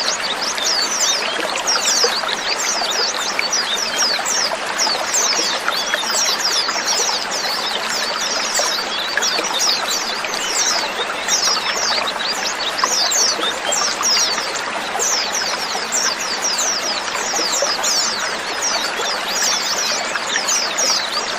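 A flock of white-eyes calling together: a dense, unbroken stream of many short, high, falling chirps overlapping one another, over a steady hiss.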